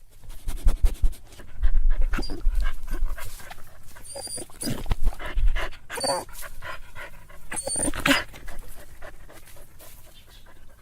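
A dog panting and snuffling, with a few short high whimpers.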